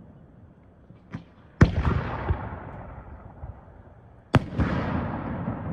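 Fireworks display: a small pop, then two loud shell bursts nearly three seconds apart, each trailing off in a long fading rumble.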